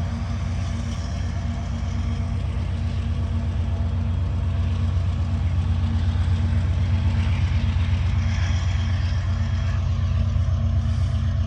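General Electric diesel locomotive engine running steadily with a deep hum, growing louder as it draws near. This is the distributed-power unit at the rear of a freight train.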